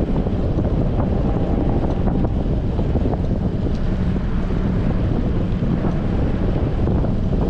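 Wind buffeting a GoPro's microphone while cycling: a steady, loud low rumble.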